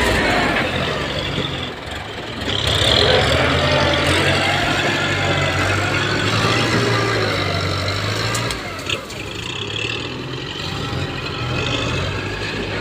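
ZT 155 tractor's diesel engine running steadily with a deep, even hum, dipping briefly about two seconds in before picking up again.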